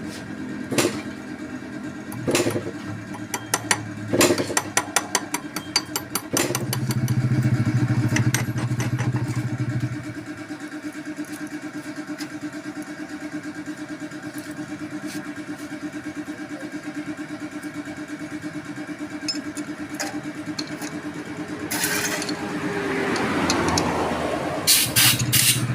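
Small motorcycle engine running steadily at idle with an even fast pulse. It is louder for a few seconds early on, and sharp clicks and taps come over it in the first several seconds. A short rushing noise comes near the end.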